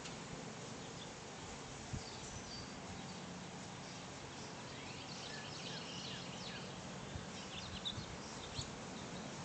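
Steady background hiss with small birds chirping faintly, mostly in the second half, and a few light clicks about two seconds in and near the end.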